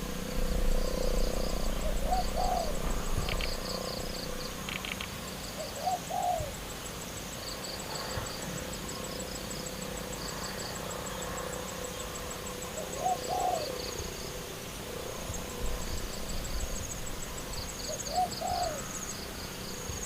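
A dove cooing, short low calls repeated every few seconds. Insects chirp in quick pulsed runs, with a steady high insect whine behind.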